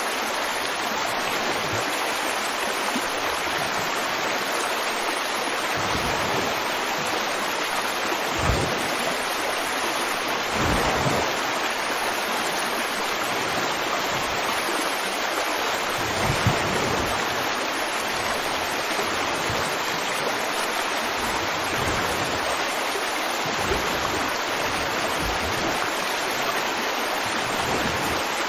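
River water flowing and rushing over rocks: a steady, full hiss with brief low gurgles and swells now and then.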